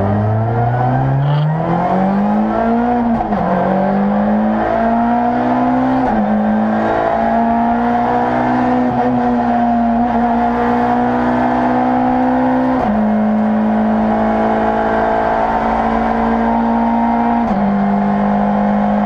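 Rally car engine accelerating hard through the gears. The revs climb and fall back at each shift about three and six seconds in, then hold nearly steady with two more small drops later on.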